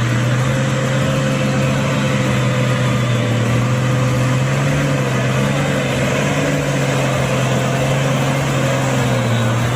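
Tractor engine running at a steady speed, a constant low drone with no revving.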